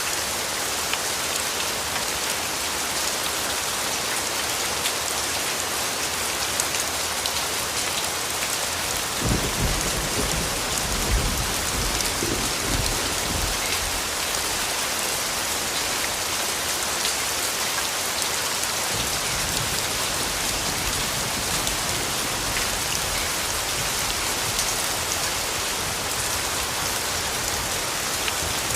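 Steady rainfall pattering down. About a third of the way in, a low rumble of thunder rolls for a few seconds and fades.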